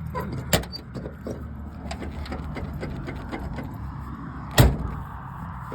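Rummaging and handling noises, small clicks and rustles, with two sharp knocks, one about half a second in and a louder one near the end, over a low steady rumble.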